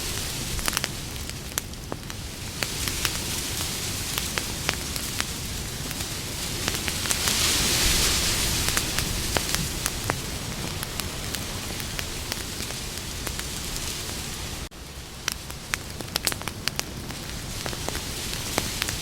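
Campfire burning: a steady hiss of flames with frequent sharp crackles and pops of burning wood. The hiss swells for a few seconds near the middle, and the sound drops out for an instant about fifteen seconds in.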